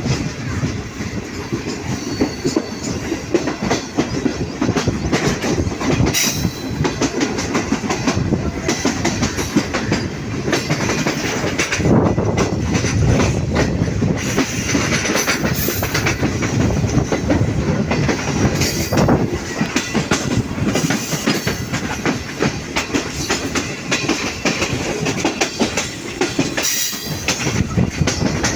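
Moving passenger train heard from aboard: a steady rumble of the coaches with the clickety-clack of steel wheels running over rail joints, a little louder in the middle.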